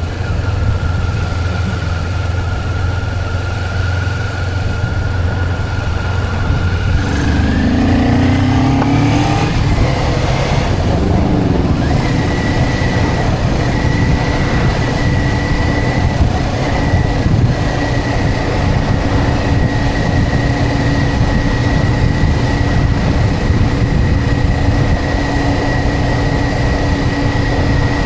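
Motorcycle riding along, its engine running under a rush of wind noise. About eight seconds in the engine note rises as the bike speeds up, then holds steady at a higher pitch.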